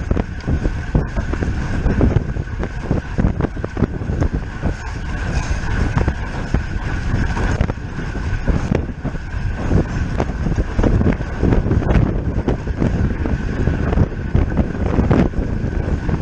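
Wind buffeting the microphone of a camera riding on a racing road bicycle at speed, a gusty rumble with a faint steady whine underneath.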